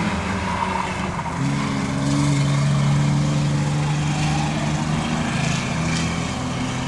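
Race trucks' engines running at racing speed around the track, a steady loud drone whose pitch shifts about a second and a half in.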